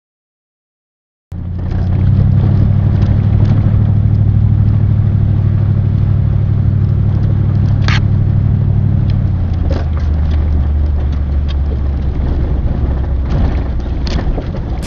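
Silence for about a second, then a motor vehicle's engine and road noise as a loud, steady low drone that drops lower about nine seconds in.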